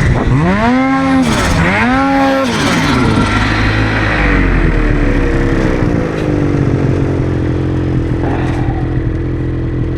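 Snowmobile engine revved twice, its pitch climbing and dropping quickly each time, then easing down to a lower, steadier running speed.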